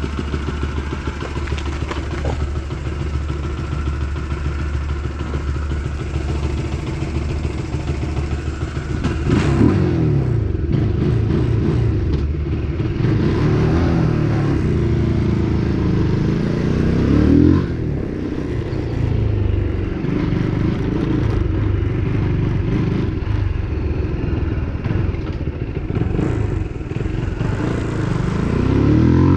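2023 UM RS 125 street motorcycle's 125 cc engine running steadily at idle, then revved and ridden off about nine seconds in. From there its pitch rises and falls over and over.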